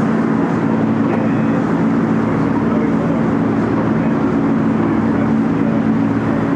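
Tour boat's engine running steadily under way, a constant low hum under a rush of wind and water noise.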